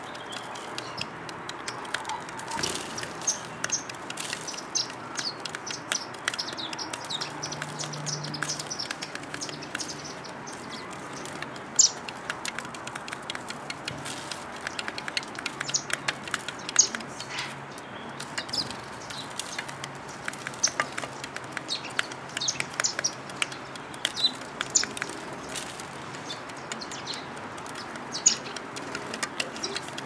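Small birds chirping: many short, high chirps at irregular intervals, a few much louder than the rest.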